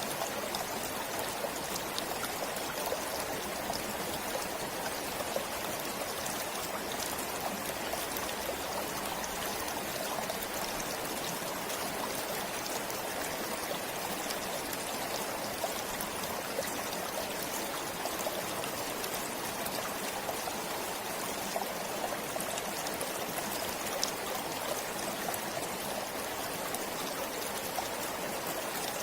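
Forest stream flowing steadily, the water trickling and splashing with many small drips.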